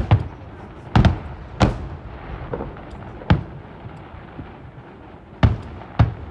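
Aerial fireworks shells bursting: a series of about seven sharp booms at irregular intervals, two in quick succession at the start, then single bangs roughly a second or two apart.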